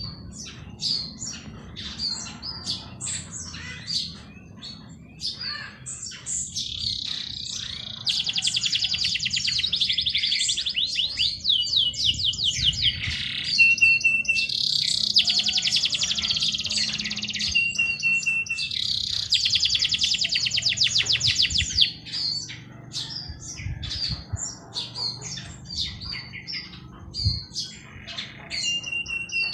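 Several songbirds chirping, with long, fast, loud trilling songs through the middle and a short steady whistled note now and then.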